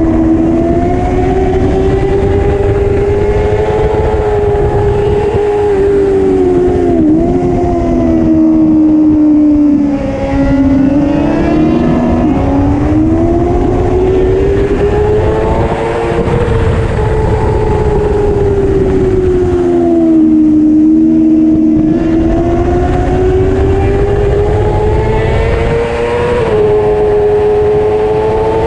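Superbike racing motorcycle engine at race pace, its note rising and falling through the corners and straights, with brief sharp pitch jumps at gear changes.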